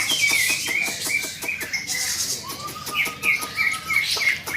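Several caged cucak ijo (green leafbirds) singing at once: quick runs of short, high chirping notes, with a long steady whistled note held from about halfway through.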